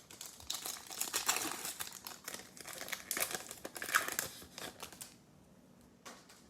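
Plastic foil wrapper of a football trading-card pack crinkling as it is handled and torn open, dense for about five seconds and then fading to faint handling.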